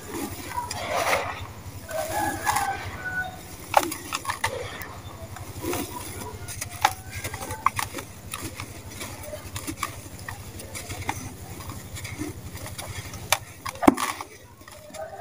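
Dry sand-cement crumbling and crunching in a tub: irregular gritty crunches with a few sharp cracks, the loudest about four, six and fourteen seconds in.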